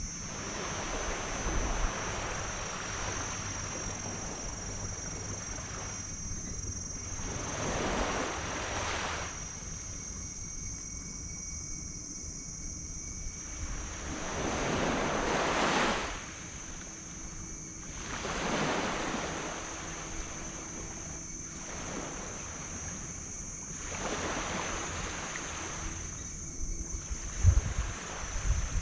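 Small waves breaking and washing up a beach, each swell of surf building and fading every few seconds, the loudest ending abruptly about halfway through. Wind buffets the microphone near the end.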